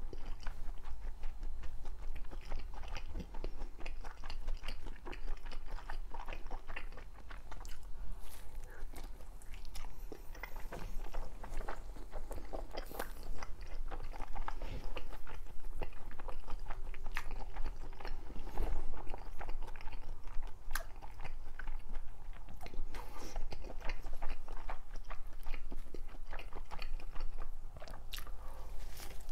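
A person chewing and biting fish cake close to the microphone, a continuous run of small mouth clicks.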